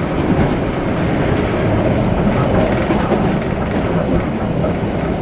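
Inside a PATH rapid-transit car running at speed: a steady rumble of wheels on rail, with a few faint clicks over rail joints.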